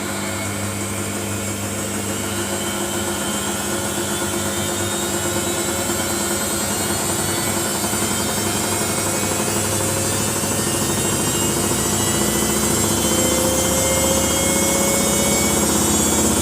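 Samsung washing machine spinning up in its final spin: a steady motor hum and whine that slowly rises in pitch and grows louder as the drum speeds up.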